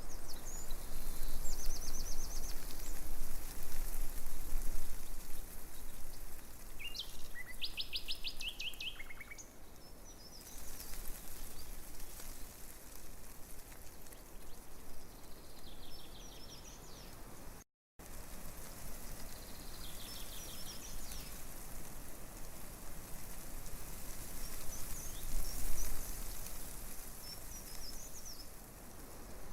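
Breeze rustling through tree leaves in a steady hiss, with small birds chirping and giving several quick trills, the loudest about a third of the way in. The sound cuts out for an instant about halfway.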